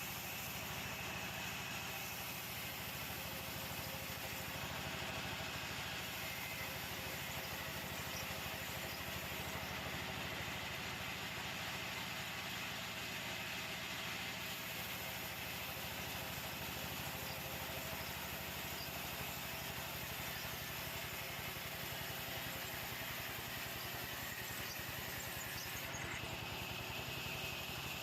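Sawmill machinery's engine running steadily at an even speed, with a fine rapid pulsing and a steady high hum over it.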